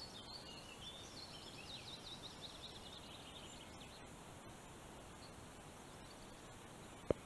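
A small songbird singing a fast twittering song for the first three seconds or so, over a faint steady outdoor background hiss. A single short knock sounds near the end.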